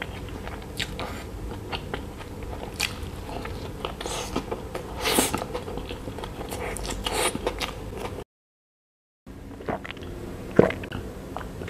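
Close-miked chewing of a burger with coleslaw: irregular wet mouth clicks and small crunches. The sound cuts out completely for about a second, eight seconds in, and near the end he drinks from a glass jar, with a few sharper mouth and swallowing sounds.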